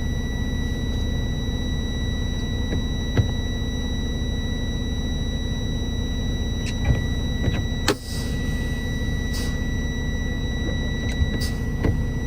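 Steady low rumble of a vehicle driving, with a thin, steady high-pitched whine. A few light knocks come through, the sharpest about eight seconds in.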